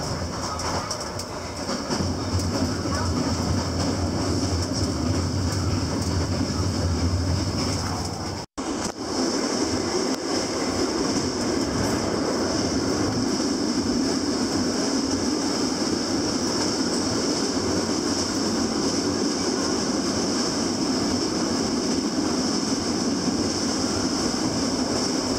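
Passenger train running, heard from inside the carriage: a steady rumble of wheels on the rails with a constant high hiss. The sound drops out for an instant about eight and a half seconds in.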